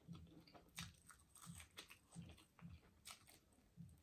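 Faint close-miked chewing of a bone-in chicken wing: soft, regular chews about twice a second with small wet mouth clicks.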